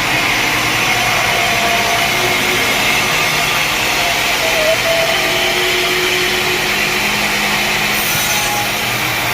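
Sawmill saw running steadily through wood, a loud, even rasping noise with faint tones from the machinery underneath.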